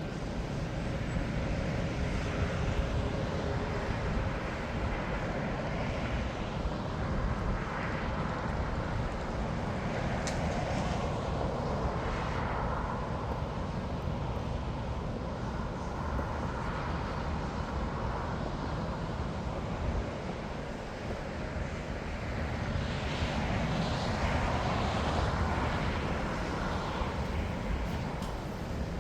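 Jet airliner engines at an airport, a steady rushing noise over a constant low rumble, swelling briefly about twelve seconds in and again for several seconds near the end.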